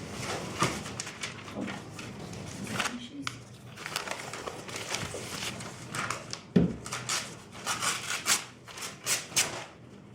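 Paper rustling and crinkling with short clicks and knocks of glass jars being wrapped in newspaper and packed, and one louder knock about six and a half seconds in.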